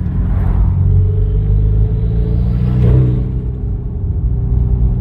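Hyundai Genesis Coupe's 2.0-litre turbocharged four-cylinder pulling under throttle, its pitch rising. About three seconds in the throttle closes with a short burst of turbo flutter, because the blow-off valve's feed line is pinched off so the valve does not vent.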